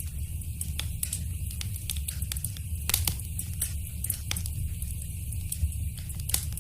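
Wood fire crackling in a fireplace: a steady low rumble of flames with scattered sharp pops and snaps, the loudest about three seconds in and again near the end.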